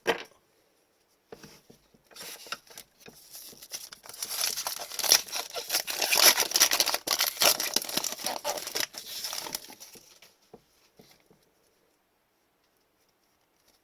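A foil trading-card pack wrapper crinkling and tearing as a hockey card pack is ripped open and handled. The crinkling is loudest in the middle and stops a few seconds before the end.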